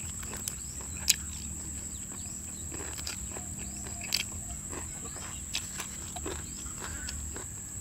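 Close-up eating sounds of grilled field frog being torn and chewed: sharp crunches and smacks about once a second. Under them runs a steady high drone of insects.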